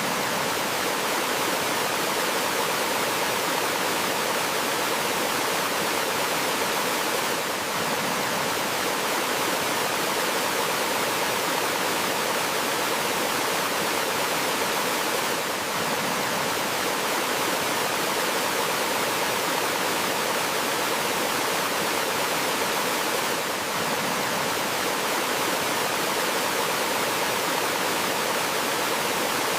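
Small forest waterfall and stream: water running and falling over rocks in a steady, even rush that does not change.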